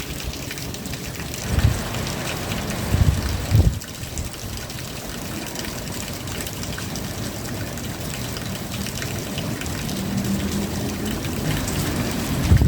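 Steady rain, with fine drops pattering and water running. A few low rumbling surges come in the first four seconds, and a low steady hum joins near the end.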